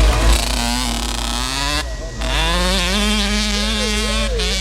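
A vehicle engine running and revving. Its pitch falls and cuts out about two seconds in, then climbs again and holds at high revs with a wavering pitch.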